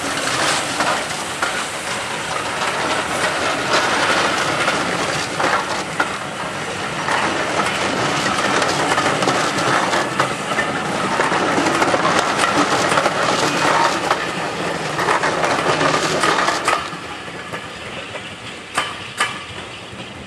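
Steam-hauled passenger coaches rolling past at speed, wheels clicking over the rail joints in a loud steady rumble. The noise drops away about seventeen seconds in as the last coach passes, with a couple of sharp clicks after.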